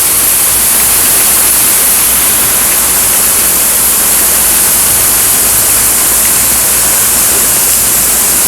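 Heavy thunderstorm rain pouring down with strong wind, a loud steady rushing hiss.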